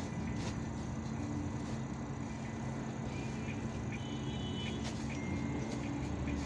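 IVECO Urbanway 18M articulated city bus running, heard inside the passenger cabin: a steady low engine and drivetrain drone with road noise and a few faint clicks and rattles.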